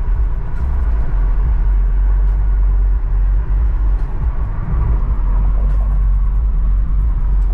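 Steady, loud low rumble of a car on the move.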